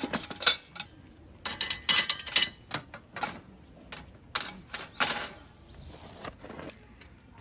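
Irregular clicks and clacks of hard objects being handled, in bunches about a second apart: camp cooking gear such as containers, lids or utensils being set down and moved.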